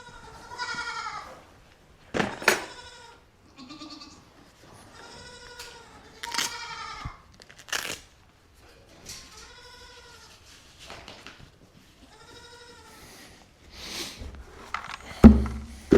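Goats and sheep bleating again and again, a string of separate calls. A few sharp knocks are heard, and there is a loud thump near the end.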